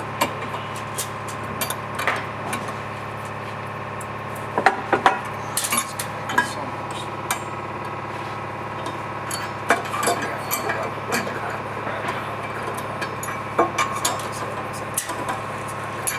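Irregular metallic clinks and knocks of bolts and tools being handled on the steel parts of a Tippmann Clicker press during disassembly, with a small cluster of louder knocks about five seconds in and around ten seconds in, over a steady hum.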